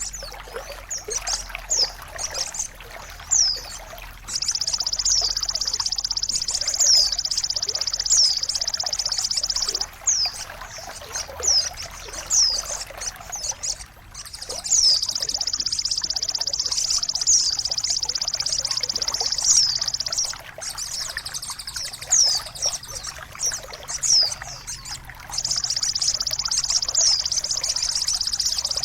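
Trickling water under birdsong: many short, high chirps that fall in pitch, and stretches of a high, steady trill several seconds long that stop abruptly, three times.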